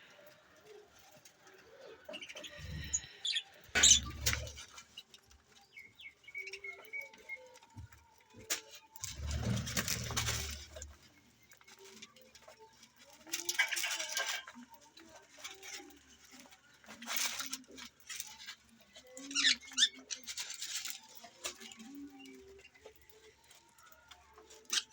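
Pet budgerigars chirping intermittently amid scattered bursts of rustling and wing-flapping, with two low thumps, one a few seconds in and a longer one about nine seconds in.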